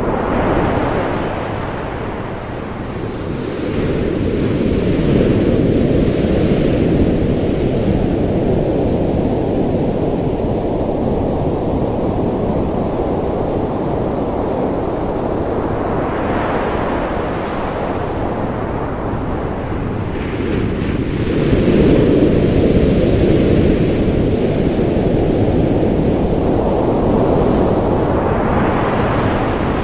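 Ocean surf: a steady low rush of waves, swelling louder each time a wave breaks, every several seconds.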